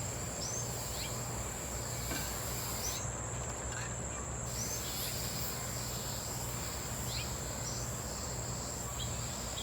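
Insects, crickets or similar, calling outdoors in one steady, unbroken high tone, with a few faint short downward chirps scattered through.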